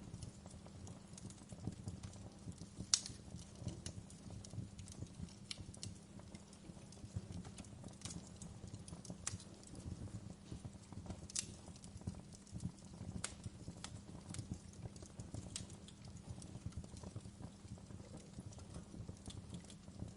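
Wood fire crackling: irregular sharp pops and snaps over a low, steady rumble of burning, with one louder pop about three seconds in.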